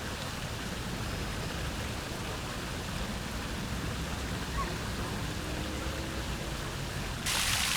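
Steady outdoor background with a low rumble, then near the end a sudden switch to a louder, even rush of running water.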